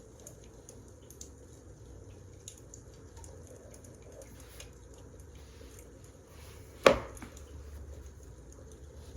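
Wood fire crackling with faint scattered small pops, and one loud sharp knock about seven seconds in.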